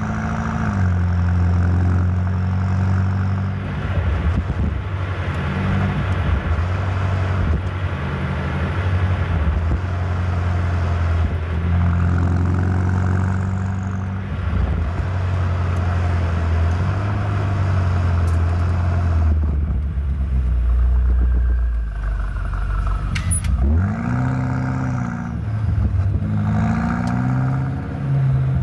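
BMW M8 Competition's twin-turbo V8 running under way, its pitch stepping up and down through gear changes. It settles low and deep about two-thirds of the way in, then climbs several times under acceleration near the end.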